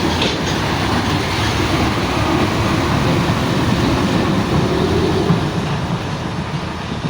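Heavy vehicle rumbling steadily, engine and road noise, with a low drone that swells slightly in the middle.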